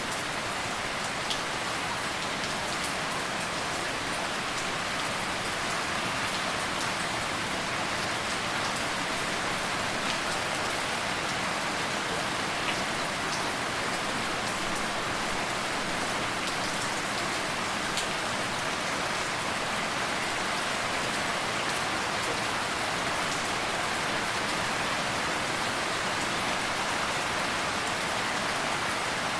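Steady rain falling: a continuous even hiss, with scattered individual drops ticking through it.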